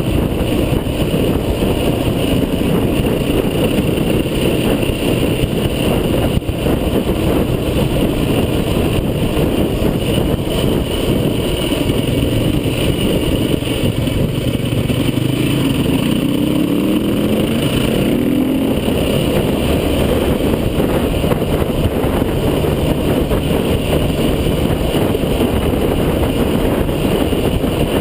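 Off-road vehicle running along under way, its engine and drive noise steady, with the engine pitch rising for a few seconds past the middle.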